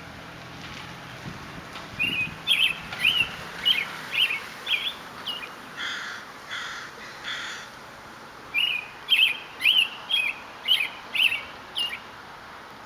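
American robin singing two runs of short whistled phrases, broken about halfway by three harsh, hoarse calls from another bird.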